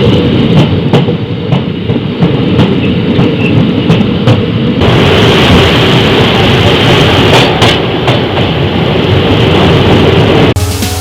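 Train running on the track, a steady rumble with repeated clicks of the wheels over the rail joints. Music comes in near the end.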